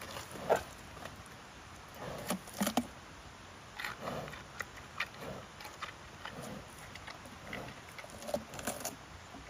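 Giant panda biting and chewing bamboo: irregular cracking and crunching as the stalks split.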